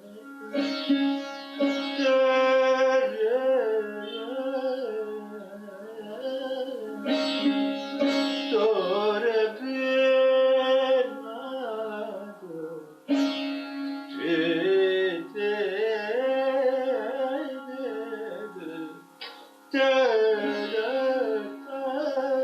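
An Indian string instrument plays a slow melody in Raag Kirvani, its notes sliding between pitches over a steady drone. The phrases are broken by brief pauses.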